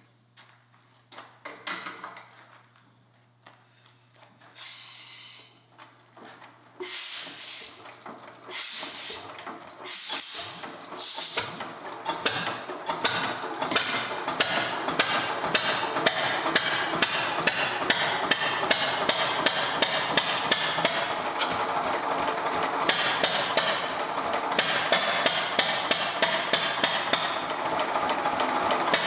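1930s Stover 10 hp single-cylinder diesel engine catching: a few irregular puffs and knocks at first, then, from about twelve seconds in, a steady, rapid beat of sharp firing strokes. It runs poorly, thought to be firing only off the punk, with a leaking valve costing compression.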